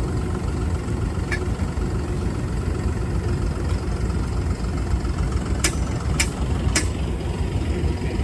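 An engine running steadily with a low rumble. Three sharp clicks come about half a second apart near the end.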